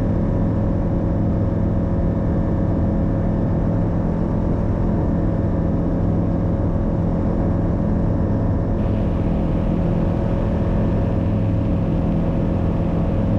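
Single-engine light aircraft's piston engine droning steadily at climb power, heard from inside the cockpit.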